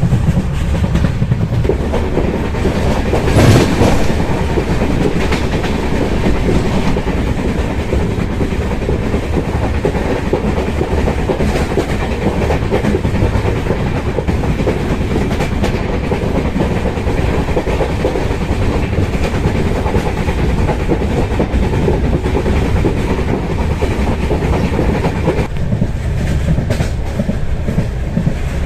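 Express train of LHB coaches rolling along the track, a steady loud rumble with wheels clacking over the rail joints. There is a brief louder rush about three seconds in.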